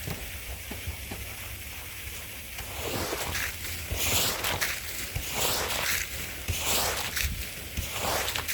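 Stiff hand brush scrubbing a wet, soapy rug, wet rasping strokes. A steady hiss at first, then from about three seconds in, rhythmic back-and-forth strokes at about two a second.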